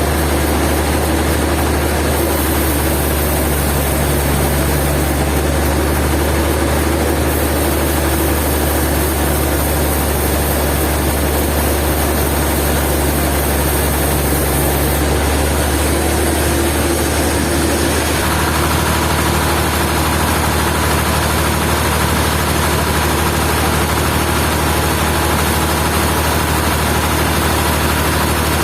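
Sawmill machinery running steadily with a low, engine-like drone. A little past halfway the tone shifts slightly and a faint steady whine joins in.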